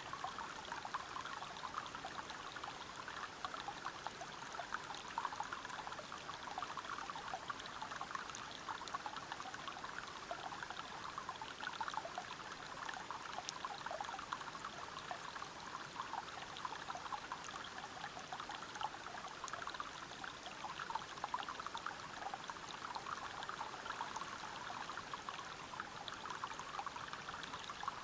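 Stream water rushing and splashing over rocks at a small waterfall: a steady, unbroken rush with many small splashes.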